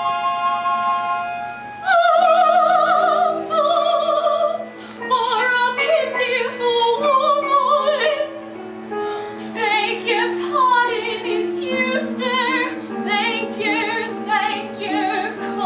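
Held piano chords, then about two seconds in a soprano voice begins singing in an operatic style with a wide vibrato over the piano accompaniment of a musical-theatre number.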